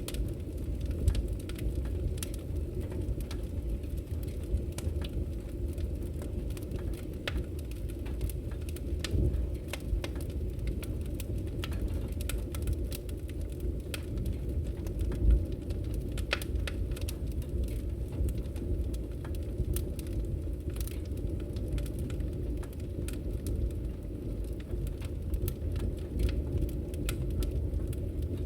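Wood fire crackling in a fireplace: frequent irregular pops and snaps over a steady low rumble of the burning flames.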